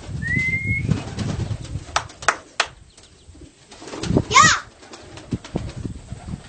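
Baghdadi pigeons cooing low during the first second and a half, followed by a few sharp clicks and a short, loud squeaky call about four and a half seconds in.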